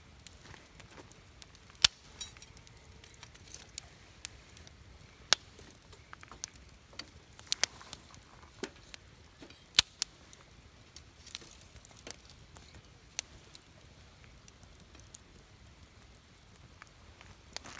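Wood fire crackling, with scattered sharp pops at uneven intervals over a faint hiss; the sharpest pops come about two, five and ten seconds in.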